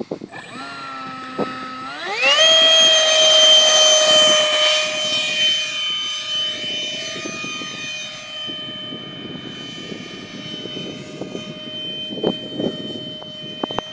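Electric ducted fan of a Parkzone Habu 2 RC jet, whining at low throttle, then rising sharply in pitch about two seconds in to a loud high whine at full power for takeoff. It then holds a steady pitch and fades gradually as the jet flies off.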